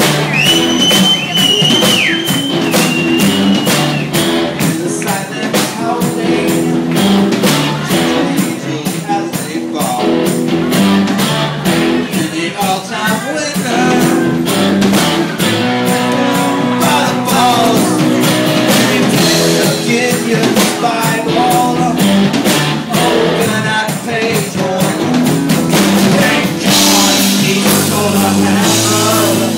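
Rock band playing, with drums keeping a fast, steady beat under guitar and bass. A high lead note is held and bent in the first few seconds.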